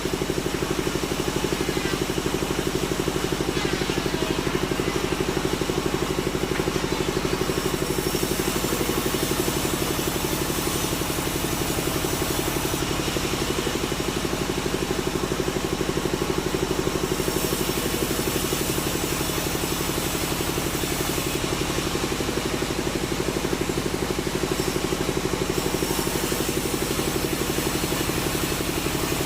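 Engine of sawmill machinery running steadily, a continuous hum with fast even pulsing.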